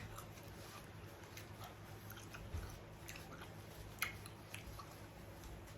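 Faint chewing of food, with a few soft mouth clicks, the sharpest about four seconds in.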